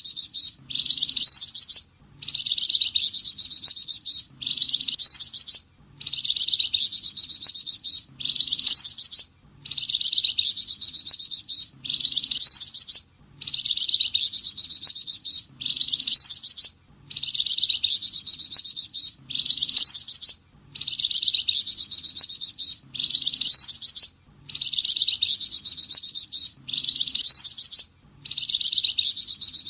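Song of the bird called flamboyan in Indonesian bird-keeping, its 'tembakan' burst song: a fast, high twittering phrase of about a second and a half, repeated over and over with brief gaps, each repeat alike.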